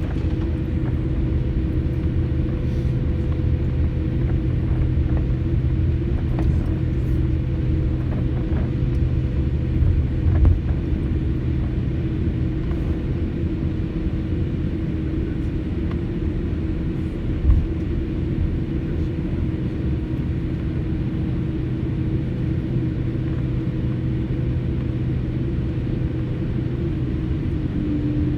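Airliner cabin noise before takeoff: the steady rumble and hum of the jet engines and cabin air heard from inside the cabin, with a couple of brief bumps about a third and two thirds of the way through.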